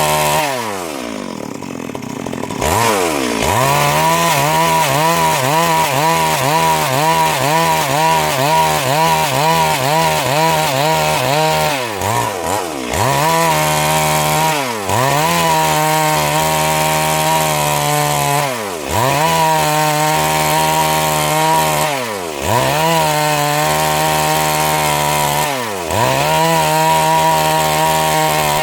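Stihl MS 382 two-stroke chainsaw sawing a log into boards at high revs. Near the start the engine pitch drops away and climbs back, and after that it wavers, then dips and recovers every three to four seconds.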